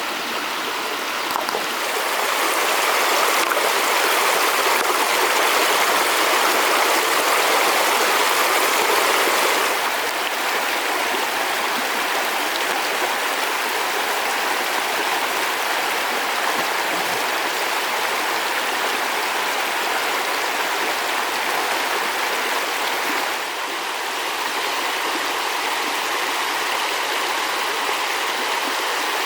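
Flowing water rushing steadily, a little louder for the first ten seconds or so.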